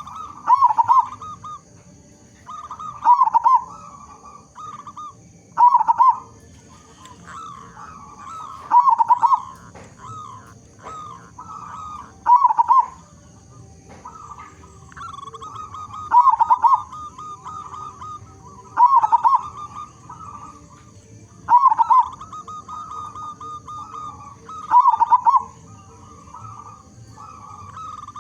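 Zebra dove (local perkutut) cooing over and over: a loud, rolling phrase about every three seconds, with softer coos between. This is a bird in full, vigorous song of the kind used as a lure to set other perkutut calling.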